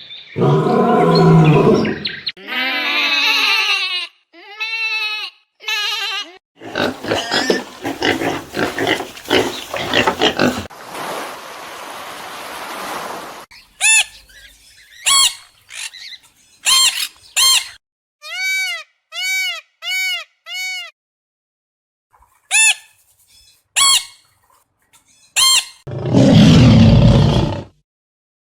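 A series of different animal calls, one after another. In the middle come many short calls that rise and fall, repeated in quick groups, and near the end a loud, low call.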